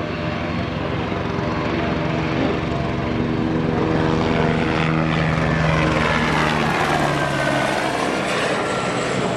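ATR 72-500 twin-turboprop running at power and passing by, its steady propeller drone swelling. The drone then drops in pitch about halfway through as the aircraft goes past.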